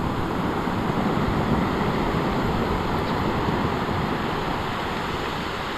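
Surf from big waves breaking and washing up the shore: a steady rush of water that swells about a second in and slowly eases, with wind buffeting the microphone.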